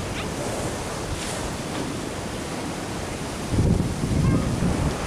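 Ocean waves washing against a sea wall with wind buffeting the microphone, and a louder, lower rush of water and wind about three and a half seconds in that lasts about a second.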